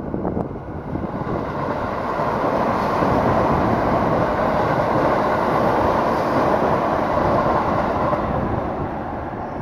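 A train passing on a nearby track: a steady rushing rumble of wheels on rails that builds over the first two seconds and eases off near the end.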